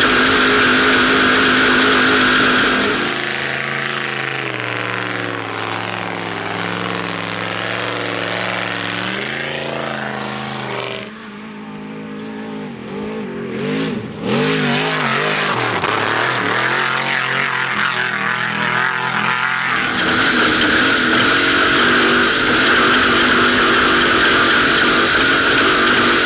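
Off-road race trophy truck engine running hard, its revs rising and falling through the middle, with a steady loud rush of driving noise at the start and again for the last several seconds.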